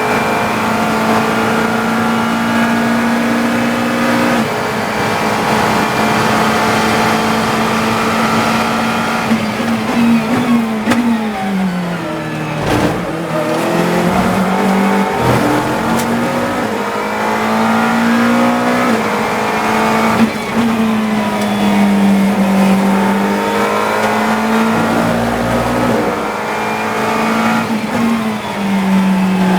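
GT3 race car engine heard from the cockpit at racing speed: running high, a gear change about four seconds in, then the revs fall in steps with downshifts under braking around ten to thirteen seconds before climbing again under acceleration, and dipping and rising once more through a corner about twenty seconds in.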